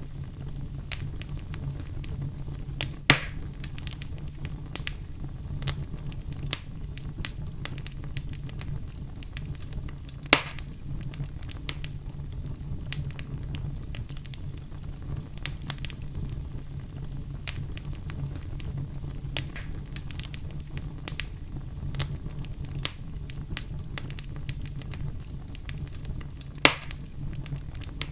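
Wood fire in a fireplace burning with a steady low rumble and a constant scatter of small crackles, with three louder sharp pops about 3, 10 and 27 seconds in.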